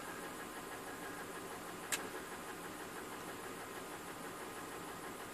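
BMW M52TU B20 2.0-litre straight-six engine idling with a misfire on cylinder 6, running steadily, with one sharp click about two seconds in.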